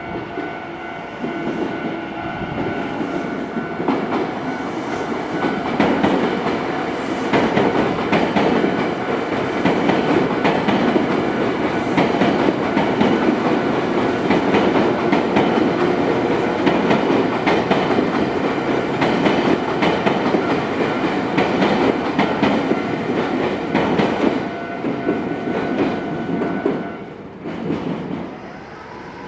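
A train passing over a level crossing on the JR Kisei Main Line, its wheels clattering over the rail joints, while the crossing's warning bell rings. The train noise rises, stays loud for most of the time, then fades, and the bell stops near the end.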